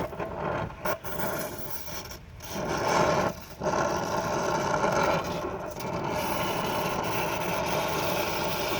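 A gas torch flame burning with a steady rushing hiss, broken by two brief dips in the first few seconds, as it heats the engine head to free seized parts.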